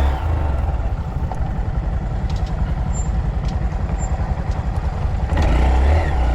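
Motorcycle engine running under a heavy, buffeting low rumble of wind on the microphone. It swells louder briefly near the end.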